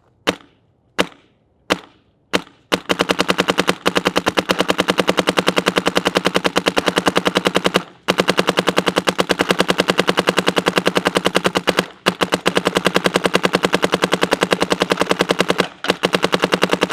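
Shocker ERA electropneumatic paintball marker firing: a few single shots, then long strings of rapid fire broken by short pauses. Only the marker's own shots are heard, with no paint hitting a target.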